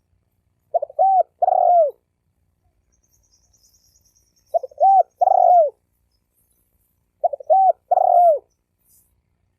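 Spotted dove cooing as a decoy call: three phrases about three seconds apart, each a quick stutter of short notes followed by two hooting coos, the last one longer and falling in pitch.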